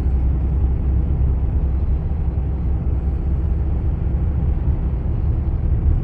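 Steady low rumble of a vehicle driving, heard from inside the cabin: road and engine noise.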